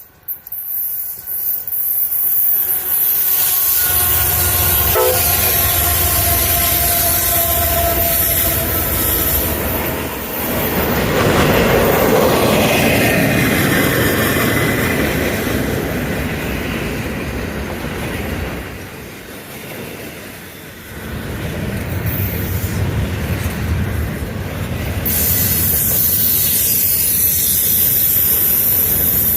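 Diesel freight locomotive sounding its horn as it approaches, then the locomotives and freight cars rolling past with steady wheel-on-rail noise. The sound dips briefly about two-thirds of the way through, then swells again.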